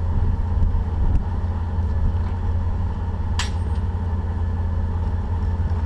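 Offroad Jeep running, a steady low rumble, with one sharp click or knock about three and a half seconds in.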